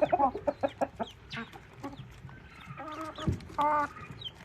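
Chickens clucking: a quick run of clucks in the first second, scattered clucks after, and a short drawn-out call about three and a half seconds in.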